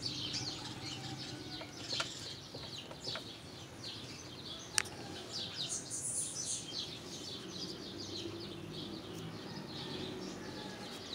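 Small birds chirping in the background, a steady stream of quick, high chirps, with one sharp click about five seconds in.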